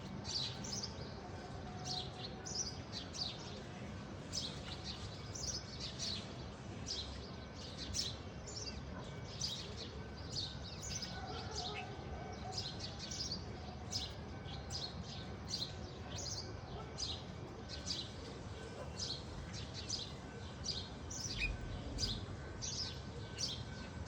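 Small birds chirping repeatedly: short, sharp, high chirps that fall in pitch, about one or two a second throughout, over a steady low background hum.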